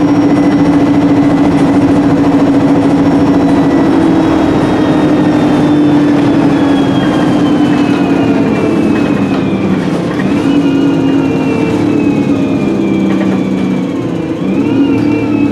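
Onboard sound of an Alexander Dennis Enviro300 bus on an ADL E30D chassis with a Voith 4-speed automatic gearbox, its engine running with a blown exhaust. A steady engine drone gives way to a falling gearbox whine as the bus slows, with the pitch jumping back up twice as the gearbox changes down.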